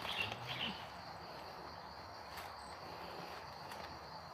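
Quiet outdoor ambience with a faint, steady high drone of insects, and a few soft rustles in the first second.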